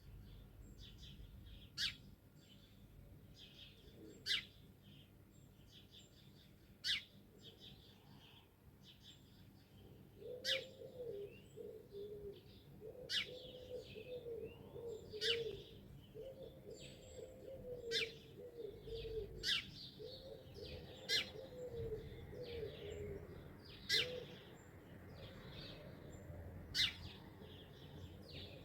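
Morning birdsong: sharp high chirps every two to three seconds over lighter, busier twittering. From about ten seconds in, a lower wavering call comes in short phrases, stopping a little past the middle.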